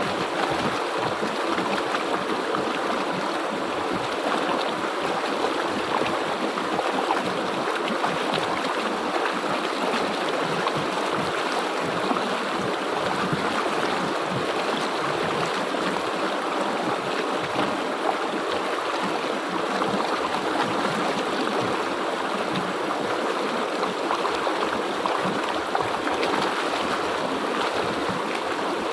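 River water flowing steadily, an even rushing sound that holds without a break.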